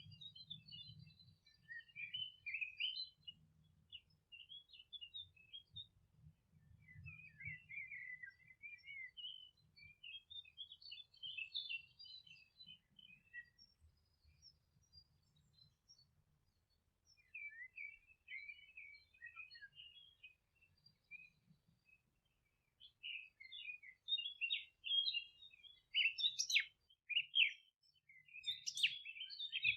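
Songbirds twittering in short, high chirping phrases, with a lull about halfway through and louder, sharper calls near the end.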